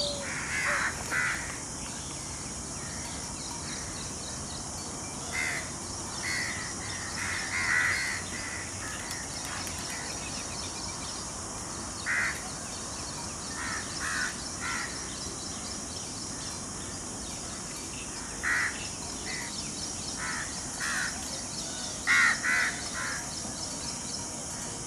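Birds calling in short, harsh calls, singly or in pairs, at irregular intervals, over a steady high hiss of background noise.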